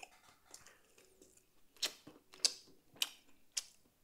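Close-miked chewing and mouth smacks of someone eating beef off a rib bone: short wet clicks, four sharp ones about half a second apart in the second half.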